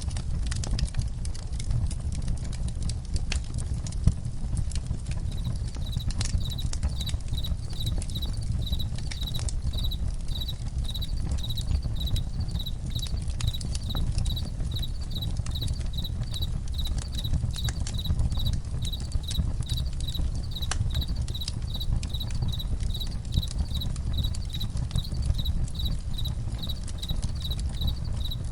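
Campfire crackling, with scattered sharp pops over a low rumble. About five seconds in, crickets start chirping in a steady, evenly pulsing rhythm.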